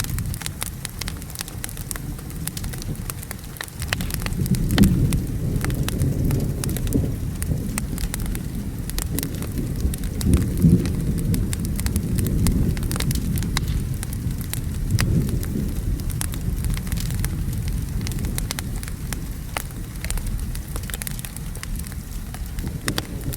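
Wood fire crackling with frequent sharp pops, over rain and a low rolling rumble of thunder that swells and fades several times.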